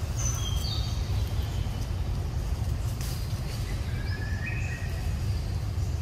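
Short whistled bird calls: a quick stepped series of high notes right at the start and two lower notes about four seconds in, over a steady low rumble.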